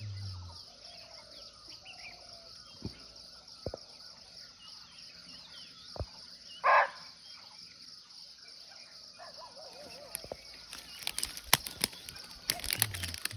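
A single short, sharp bark of a barking deer (muntjac) about halfway through, over a steady high insect drone and faint bird chirps. A run of sharp clicks and crackles comes near the end.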